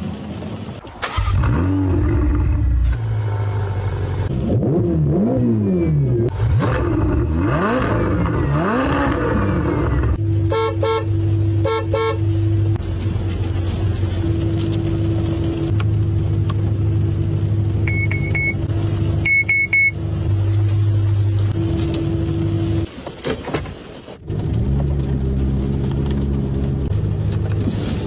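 Car engine revving up and down several times, then running steadily, with a few short car-horn toots and brief high beeps over it.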